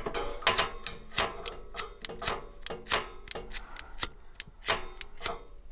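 Propane stove burner's igniter clicking repeatedly, about three sharp clicks a second, with no flame catching: the van's propane tank is empty.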